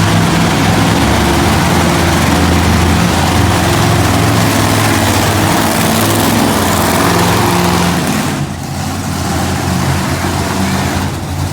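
Monster truck engine running loud and fairly steady, with a heavy noisy roar over a low pitched drone. The sound drops off about eight seconds in and then picks up somewhat toward the end.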